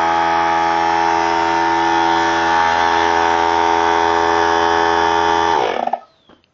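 3-gallon pancake oilless air compressor running loud and steady, its motor and pump making a buzzing hum. About five and a half seconds in it shuts off, its pitch falling quickly as it winds down.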